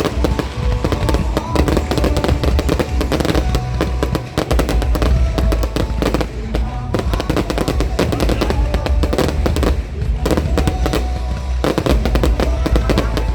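Fireworks display: a dense, continuous barrage of bangs and crackles from exploding shells, with music playing underneath.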